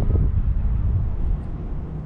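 Low wind rumble buffeting the microphone of a moving bicycle, easing a little about a second and a half in.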